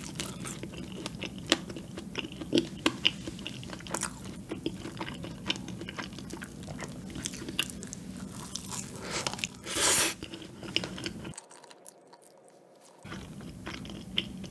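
Close-up chewing and biting of a cream-filled donut, with many small wet mouth clicks and smacks. A louder rustling burst comes about ten seconds in. The sound then drops out almost entirely for about two seconds before the chewing resumes.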